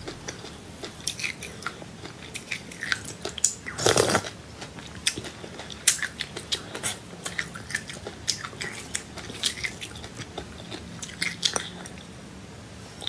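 Close-up sounds of a person chewing crunchy seeds: a run of small sharp crackles and clicks as they are bitten and ground, with one louder, longer crunch about four seconds in.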